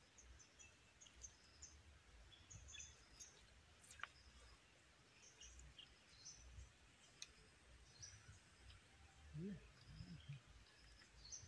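Near silence: faint outdoor ambience with small birds chirping high and thin on and off, a single sharp click about four seconds in, and a few short low sounds near the end.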